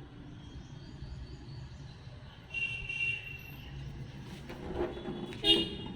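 Outdoor background of a steady low rumble, with birds chirping briefly about halfway through and again near the end.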